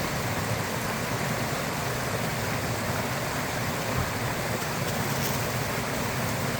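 Small mountain brook rushing over rocks, a steady even wash of running water.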